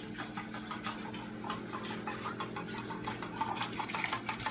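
A whisk beating a thin sauce in a soup bowl, with rapid, rhythmic clicks as it strikes the side of the bowl several times a second.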